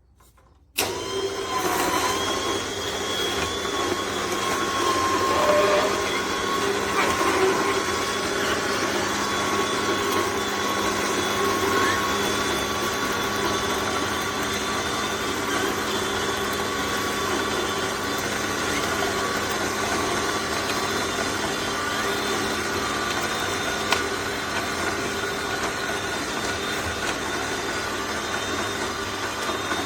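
Aobosi cold-press juicer's motor starting about a second in and then running steadily, a constant hum with a higher whine over it. There is a single click about two-thirds of the way through.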